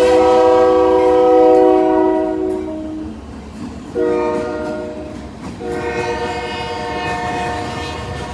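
Locomotive air horn sounding a chord in three blasts, long, short, then long, over the rumble of the passing train. This is the pattern of a grade crossing signal.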